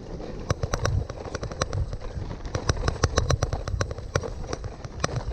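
Gravel bike rattling over a rough, stony off-road trail: a dense run of irregular sharp clicks and knocks from tyres and frame over a low rumble.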